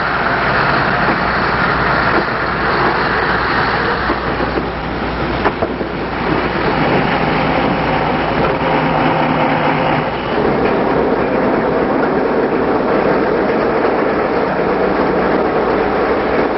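Freight train rolling along the track: a steady, loud noise of the cars running on the rails, which shifts in character about ten seconds in.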